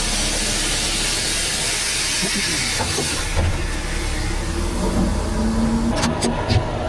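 A loud, steady hiss that fades out about three seconds in, followed by a few sharp clicks near the end, over a low steady rumble.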